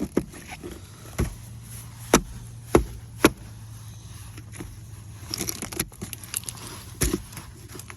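Ice being knocked and scraped off a truck: sharp cracks and knocks at irregular intervals, with a stretch of scraping a little past the middle.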